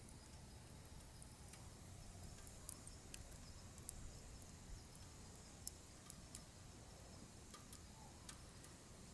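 Wood fire crackling faintly, with scattered irregular pops and snaps and one sharper pop a little past the middle, over a steady low rumble.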